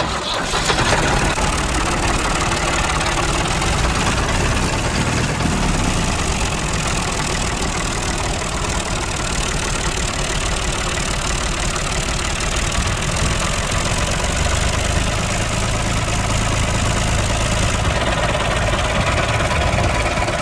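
An engine or motor running steadily, with a dense, rough mechanical noise throughout.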